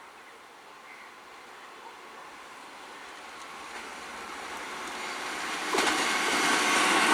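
Indian Railways EMU local train approaching, its running noise growing steadily louder, with a sharper rise in level about six seconds in as it draws near.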